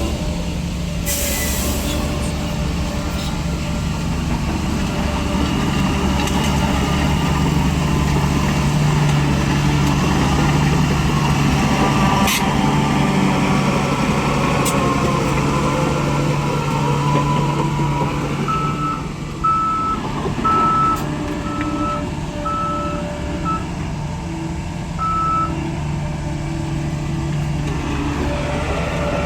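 Heavy diesel construction machinery running steadily at a landfill site, with a short hiss about a second in. In the second half a reversing alarm beeps about once a second for several seconds.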